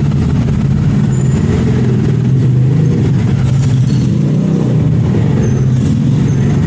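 A motor vehicle running steadily: an even, loud low drone with no change in pitch or pause.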